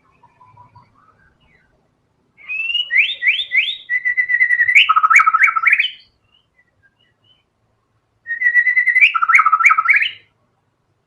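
White-rumped shama (murai batu) singing: two loud phrases of rapid repeated whistled notes, the first about three and a half seconds long and the second, about two seconds after it ends, shorter.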